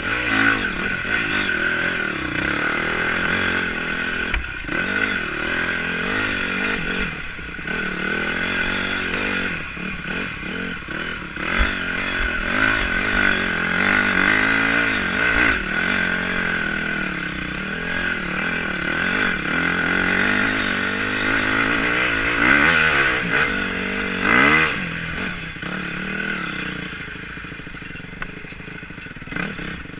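Honda 250 enduro motorcycle engine being ridden off-road, its revs rising and falling continually, with clattering and knocks from the bike over rough ground. The engine eases off somewhat near the end.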